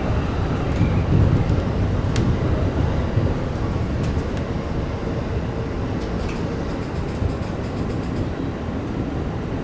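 JR Takasaki Line local electric train running on the rails: a steady low rumble with a few sharp clicks, easing slowly in loudness.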